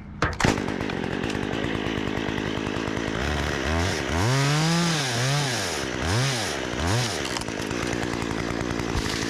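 Chainsaw starts up about half a second in and runs, its revs rising and falling several times in the middle as it cuts through a tree top held on a pull rope.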